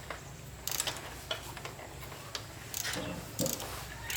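Irregular metallic clicks and short scrapes of hand tools working on motorbike parts, over a low steady hum.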